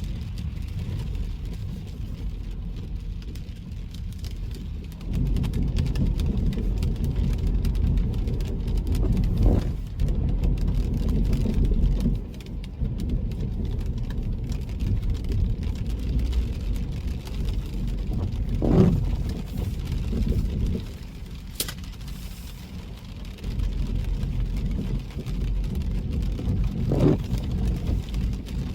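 Car driving on a wet road: a steady low road-and-tyre rumble that gets louder about five seconds in. A few brief sounds stand out, roughly nine seconds apart, and there is a single sharp click about two-thirds of the way through.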